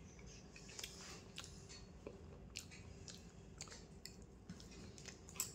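A person chewing food with her mouth close to the microphone: faint, with small soft clicks scattered through.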